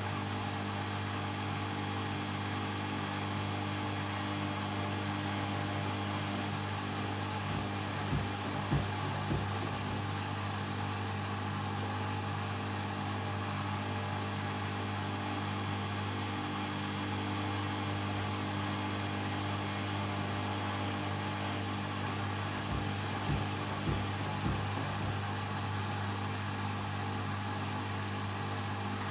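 LG washing machine running a Normal cycle in suds lock: a steady low motor hum, with a few short knocks about eight seconds in and again about twenty-three seconds in.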